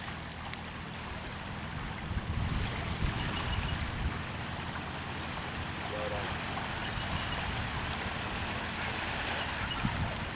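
Wind and sea water rushing steadily, with a low rumble underneath.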